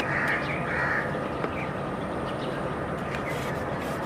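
Harsh bird calls, two in the first second, over a steady background hiss, with a few faint clicks later on.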